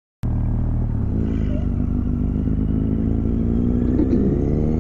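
Kawasaki W800's air-cooled parallel-twin engine running steadily, cutting in abruptly a moment in.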